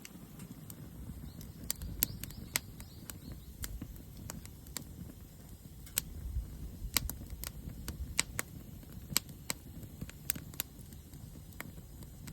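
Wood fire crackling in a small mont-bell Compact Fire Pit: irregular sharp pops and snaps over a low steady rumble.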